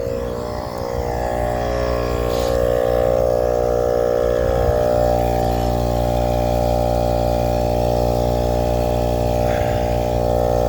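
Pittsburgh 12-volt 150 psi compact air compressor running steadily with an even, pitched motor-and-piston hum while inflating a 33x12.5 tyre, close to its 30 psi target.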